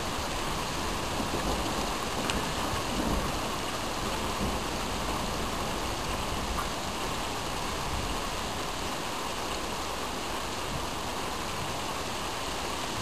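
Steady rain falling in a thunderstorm, an even hiss with no clear thunderclap.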